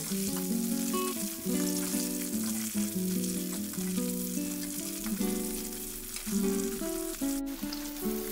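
Sliced red onions and garlic sizzling in hot oil in a metal kadai, a steady crackling hiss. Background music of melodic plucked notes plays over it.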